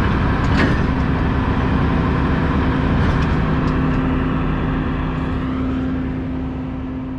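Diesel-hauled passenger train running along the track: a steady rumble with a constant engine hum, fading near the end.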